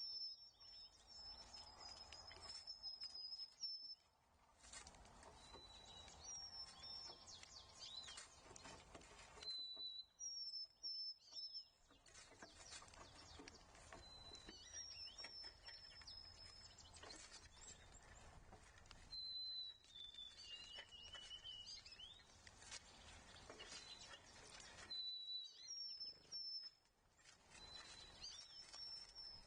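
A small songbird repeats a high, thin whistled song phrase every few seconds. Faint outdoor background noise runs beneath it.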